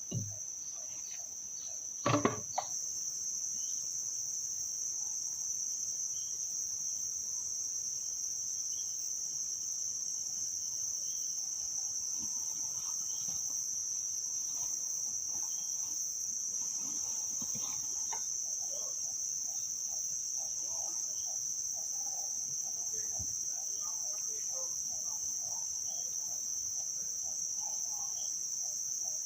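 Steady, high-pitched drone of a forest insect chorus, with two sharp knocks about two seconds in and a faint rapid ticking in the background later on.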